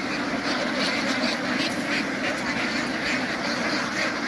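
A large flock of ducks quacking all at once, a dense, steady chatter of many overlapping calls.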